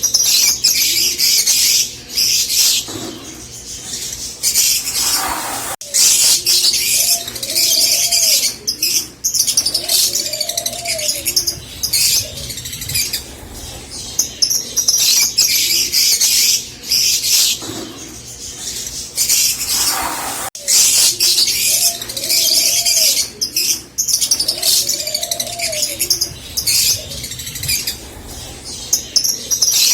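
A flock of rosy-faced lovebirds keeps up a dense, rapid high-pitched chattering and chirping, with a few lower arching calls mixed in. This is the excited song that keepers play to stimulate breeding.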